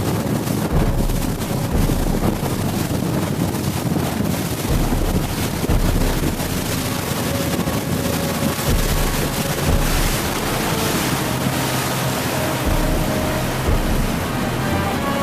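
Wind buffeting the microphone over the rush of water from a moving boat. Music with held notes comes in near the end.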